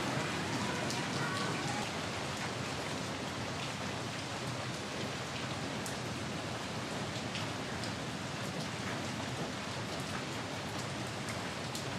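Steady rain falling: an even hiss with a few separate sharp drop ticks.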